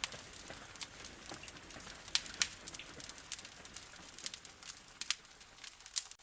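Wood fire crackling, with irregular sharp pops and snaps over a steady hiss of rain on a window.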